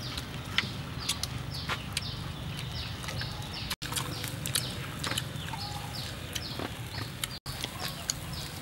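Chewing and lip-smacking of people eating grilled frogs by hand, with many short clicks, while chickens cluck and small birds chirp in the background. The sound cuts out briefly twice.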